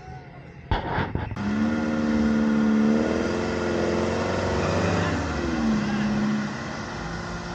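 Off-road 4x4's engine running under throttle: a sharp knock about a second in, then the engine note rises a little, falls away around the fifth second and settles to a steady lower pitch.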